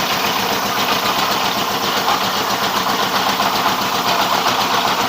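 Rice milling machine running steadily, powered by a 24 hp single-cylinder 'dompeng' diesel engine. A fast, even engine beat sits under a dense, steady hiss of the mill at work.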